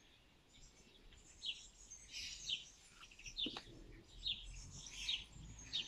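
Faint chirping of small birds: a string of short, high chirps, with a single soft click about three and a half seconds in.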